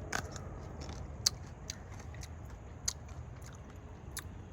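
A person biting into and chewing a small hardy kiwi (kiwiberry) fruit: a handful of sharp, uneven clicks, the loudest about a second in, over a steady low background rumble.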